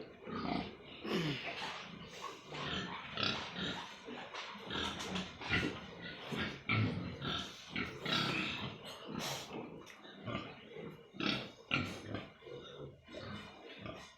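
A pen of pigs grunting and squealing, with many short calls overlapping one another.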